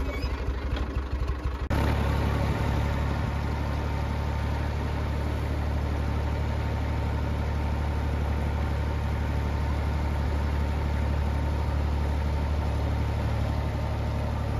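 Steady low hum of a running engine, cutting in suddenly about two seconds in and holding even.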